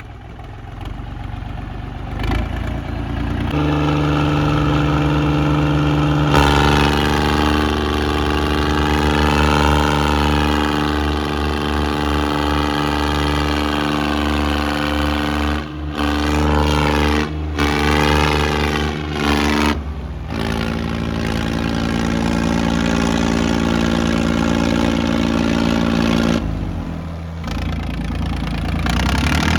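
Tractor diesel engine working hard. It revs up in two steps in the first few seconds, holds at high revs with a few brief dips, and eases off near the end.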